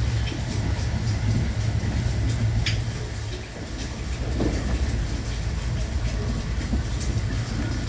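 Running noise inside a JR West Thunderbird limited express train: a steady low rumble with faint wheel-on-rail clicks, and one brief high squeak about two and a half seconds in.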